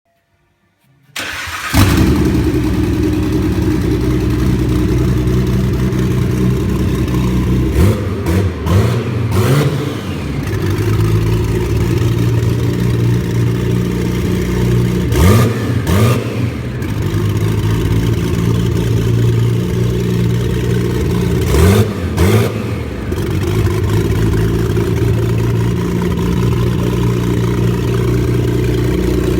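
Nissan RB26DETT twin-turbo straight-six on its first start, running with no exhaust fitted: it cranks briefly, catches about a second in, and settles into a loud idle. Three times it is blipped, a couple of quick revs each time, and drops back to idle.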